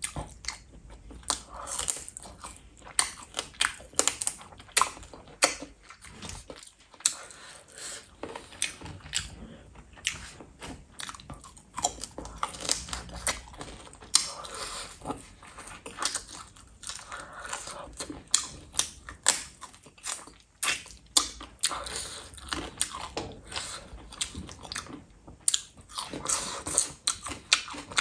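A person chewing and biting into chicken drumstick, a dense run of sharp, wet mouth clicks in quick, irregular succession.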